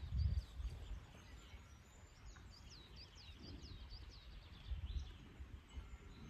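Small birds chirping: a rapid series of short, high, down-sweeping chirps. There are low rumbles near the start and again about five seconds in.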